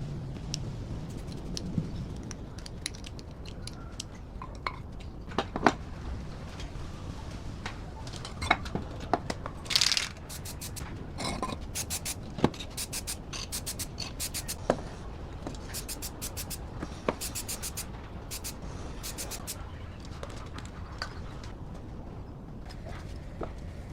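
Scattered sharp clicks and light scraping of hand work, with a run of quick, evenly spaced ticks in the middle.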